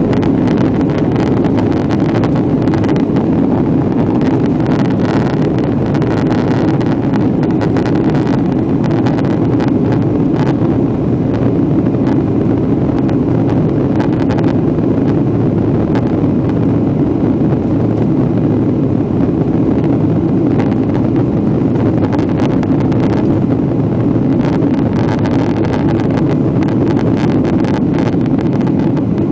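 Boeing 767 jet engines running at high power during the takeoff run, heard inside the passenger cabin as a steady loud rumble. A fast rattle runs through it where the camera is touching the cabin window.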